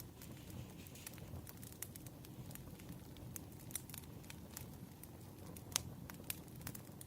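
Wood fire crackling: irregular small pops and snaps over a low, steady rumble, with one sharper pop about six seconds in.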